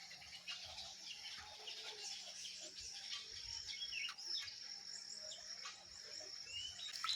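Outdoor ambience of birds giving short chirps and quick whistled calls over a steady high-pitched insect drone.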